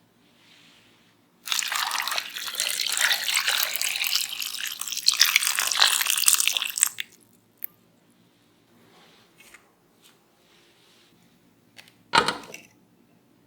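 Water running and splashing for about five seconds, starting about a second and a half in. It is followed near the end by a single short knock.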